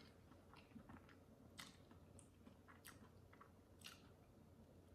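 Faint chewing of a mouthful of soft pancake with the mouth closed, heard as a few soft wet mouth clicks and smacks.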